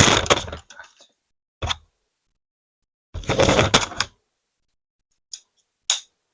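Hard plastic LEGO pieces clattering and crashing together in several separate bursts, the longest at the start and about three seconds in.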